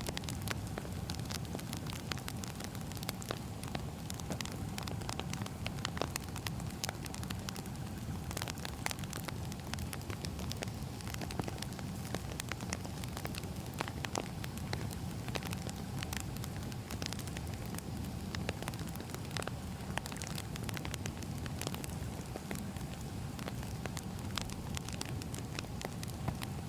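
Wood fire burning, a steady low rumble with frequent irregular crackles and pops of burning firewood.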